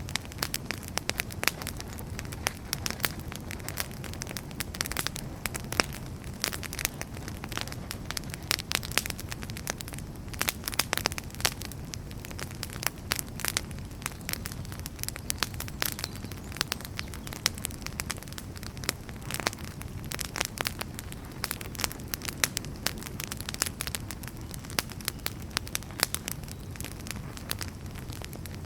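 Wood fire crackling: frequent irregular sharp pops and snaps over a steady low rush of burning firewood.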